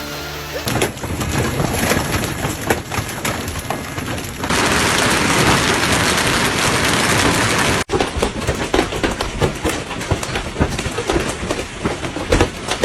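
Hailstorm: hailstones pelting hard surfaces, a dense clatter of strikes over a steady rush of storm noise. It changes abruptly about a second in, is loudest for a few seconds in the middle, and drops out for an instant about eight seconds in.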